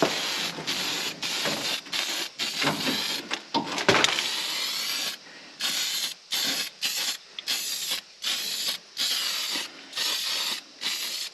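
Aerosol can of self-etching weld-through primer spraying in short hissing bursts, about one or two a second, with brief pauses between them, as the primer is laid onto bare sheet-metal weld flanges.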